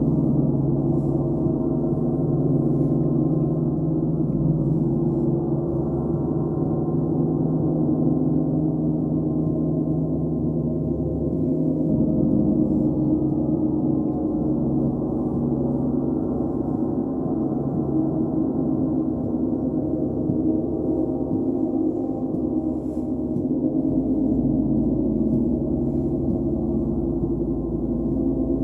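Sound-bath drone of layered, sustained low gong-like tones with no beat, the low notes shifting about halfway through and again near the end.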